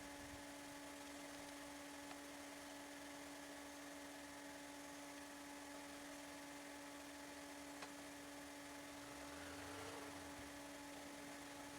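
Faint steady hum made of several fixed tones over a background hiss, with one faint click about eight seconds in.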